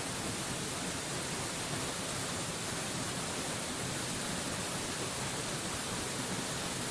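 Steady, unchanging rush of a mountain waterfall: a dense, even hiss of falling water with no separate splashes or breaks.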